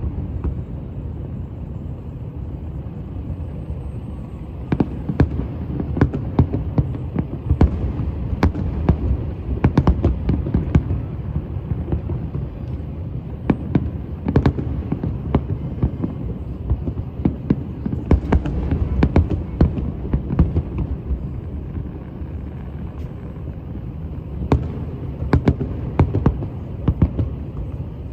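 Fireworks going off in irregular sharp bangs and pops, sometimes several in quick succession, over a steady low rumble.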